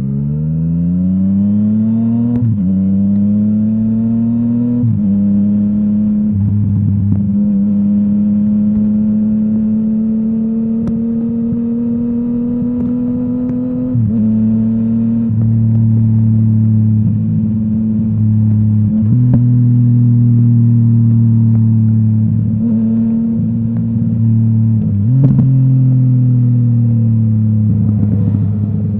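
Yamaha MT-09's crossplane inline three-cylinder engine through a full Akrapovic exhaust, revving up and then pulling along. Its pitch climbs at first, then dips briefly at shifts about 2.5 and 5 seconds in and again near the middle and three-quarters of the way through, holding fairly steady between.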